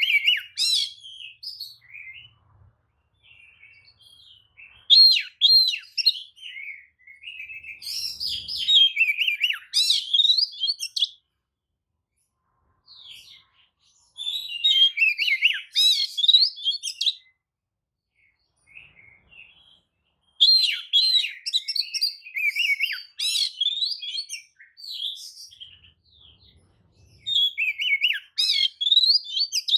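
Oriental magpie-robin singing a lure song: fast, varied whistled phrases in bursts of a few seconds, broken by short pauses, sung to provoke other magpie-robins into answering.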